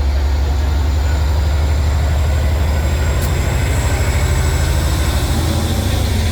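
A train running past with a loud, steady low rumble.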